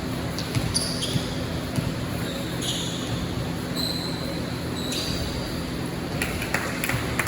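Live basketball game on an indoor court: a basketball bouncing in scattered knocks, short high squeaks in the middle, and a steady din of voices; a quicker run of bounces comes near the end.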